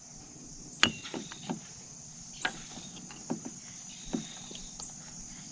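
A spoon knocking and scraping against a mixing bowl while stirring thick pizza dough: about six separate knocks, each with a short ringing tail, the loudest a little under a second in. Crickets chirp steadily in the background.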